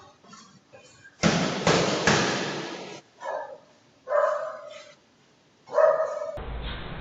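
A loud, noisy clatter with several sharp hits lasting about two seconds, then three short barks from a dog, spaced about a second apart.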